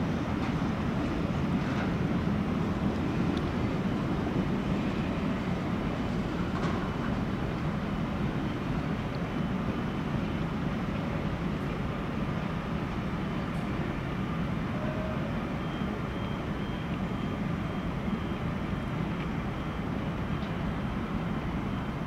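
ÖBB Railjet train running with a steady low rumble, with a few faint clicks over it.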